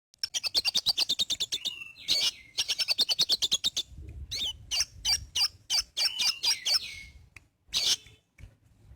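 A sogon bird singing vigorously: two fast trills of sharp, high chirps with a sliding note between them, then a run of separate chirps and slurred notes.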